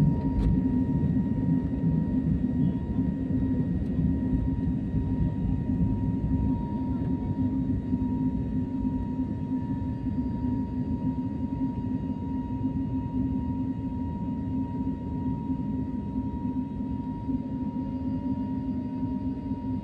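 Airplane engine noise: a steady low rumble with a thin steady whine above it, slowly getting a little quieter.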